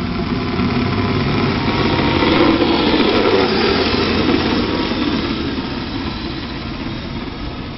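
Radio-controlled car driving through snow, its motor and tyres running steadily and growing louder about two to four seconds in, then easing off.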